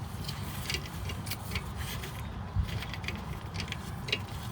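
Scattered light metal clicks and taps as the adapter pieces of a brake caliper piston rewind tool are handled and tried against the rear caliper piston.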